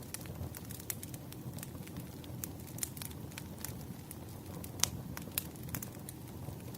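Wood fire burning, with a steady low rumble and frequent sharp crackles and pops from the burning logs; one louder pop near the end.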